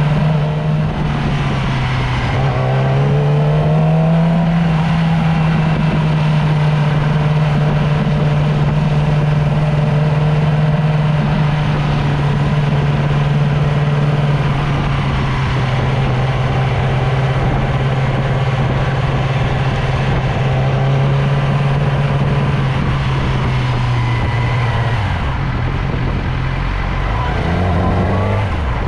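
Motorcycle engine running under way. Its note rises about two seconds in as it accelerates, holds steady for most of the stretch, then drops in steps and falls near the end as it slows.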